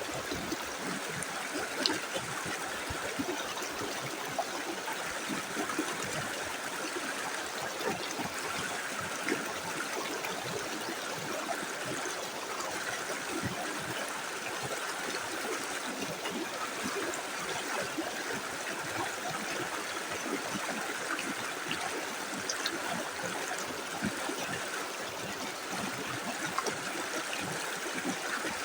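Small river flowing steadily over stones, a continuous rushing babble with fine gurgles and splashes.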